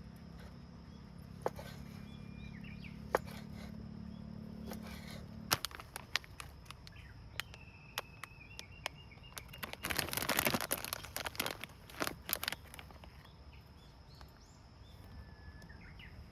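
Woodland ambience: birds chirping now and then over a steady high insect drone, with scattered clicks and a dense flurry of crackling or rustling about two-thirds of the way in. A low hum underneath stops about a third of the way in.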